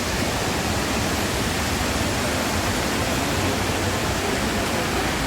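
Hundru Falls in rainy-season flow, water plunging into its pool with a steady, even rush.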